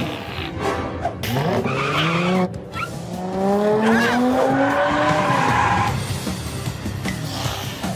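Cartoon sound effect of a car engine revving up, its pitch climbing over several seconds, with tyres screeching as the car pulls away, over background music.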